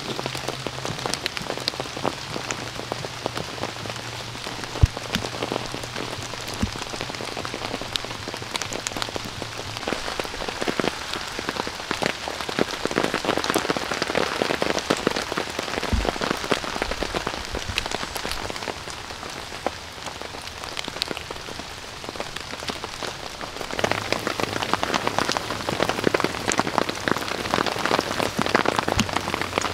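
Steady rain falling on a tarp shelter and the forest floor, a dense spray of fine drop ticks. It grows a little heavier in the middle and again near the end.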